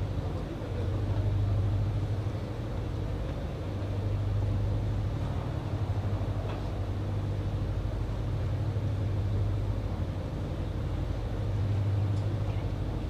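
An engine running with a steady low drone, swelling and easing in loudness several times.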